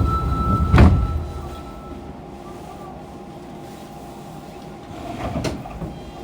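Sliding doors of a Fukuoka City Subway 2000 series car closing with a sharp clunk about a second in. After a quiet spell there is another click near the end, typical of the line breaker closing as the GTO-VVVF train gets ready to pull away.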